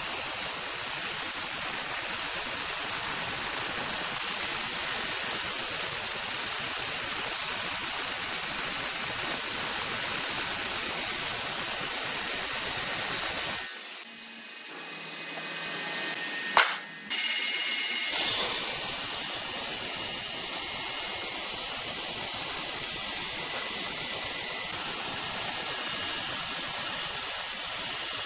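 Steady hissing machine noise. About fourteen seconds in it drops away for roughly four seconds, with one sharp click in the gap, then resumes.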